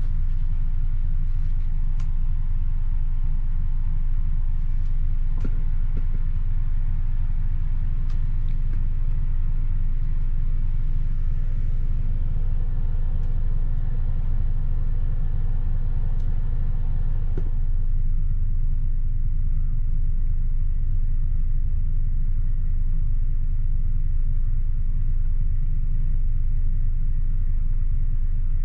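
Steady low rumble inside a Mk3 passenger coach of a loco-hauled train standing at the platform, with the Class 68 diesel locomotive idling. A few faint clicks come through, and about two-thirds of the way through a higher hiss drops away.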